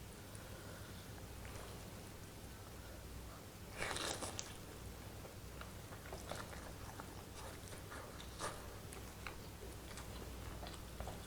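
A person eating spicy curry soup noodles close to the microphone: chewing with small wet mouth clicks, and one louder half-second burst about four seconds in. A faint steady low hum runs underneath.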